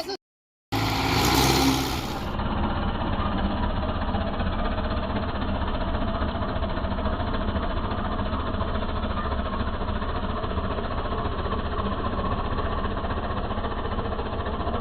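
Tractor engine running steadily, after a half-second gap near the start.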